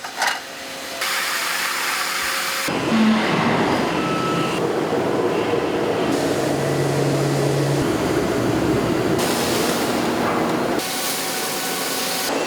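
Steady din of forging-plant machinery, a dense mechanical noise that changes abruptly several times, with a brief high tone about four seconds in and a low hum for a couple of seconds in the middle.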